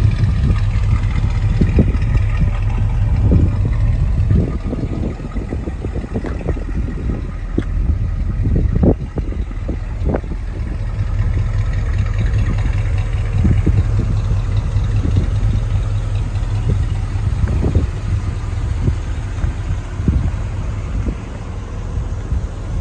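Engine of a 1976 Chevrolet truck running steadily, with occasional short knocks or rattles.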